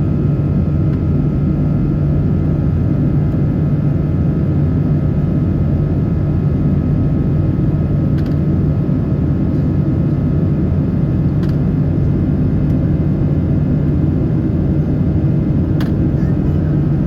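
Steady cabin roar inside a Boeing 777-300 airliner in flight, from engine and airflow noise, with a faint steady whine on top. Three light clicks stand out at spaced intervals.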